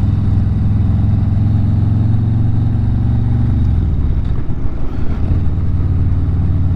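Harley-Davidson V-twin motorcycle engine running while riding, a steady low engine note that wavers briefly about four seconds in, as with a throttle change or gear shift, then settles again.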